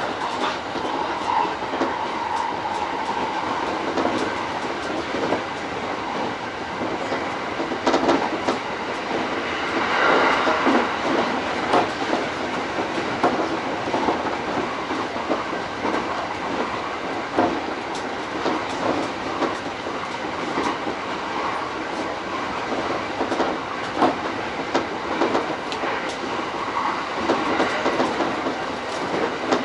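E231-series electric commuter train running along the track, heard from inside the car: a steady rumble of wheels on rail with frequent clicks over rail joints.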